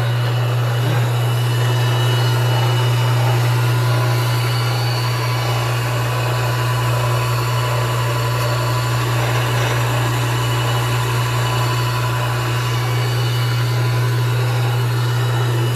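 Universal tool and cutter grinder's 1.5-horsepower electric motor running steadily with the wheel spindle spinning free: a strong, even low hum under a steady whir, no grinding contact.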